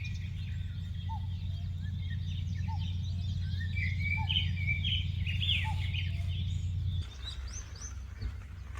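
Several wild birds singing and chirping in a morning chorus, with quick high trills and a few lower repeated notes, over a steady low hum that cuts off about seven seconds in.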